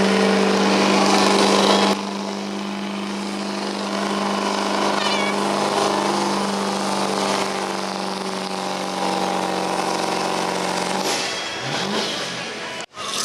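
Diesel pickup truck engine running at a steady high pitch under load while pulling a weight-transfer sled, with a short rise in revs near the end.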